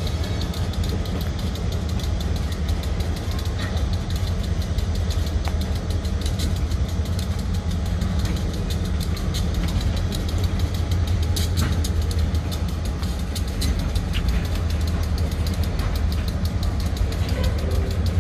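Diesel freight locomotive running with a steady low rumble while a train of tank cars rolls past.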